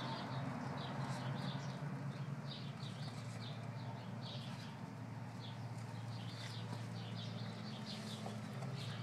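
Birds chirping in many short, repeated chirps over a steady low hum.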